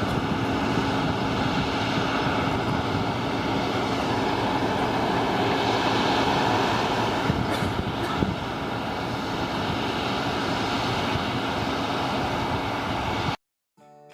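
New Holland TX62 combine harvester running steadily as it harvests wheat, a constant dense machine noise with a held low hum. It cuts off suddenly near the end.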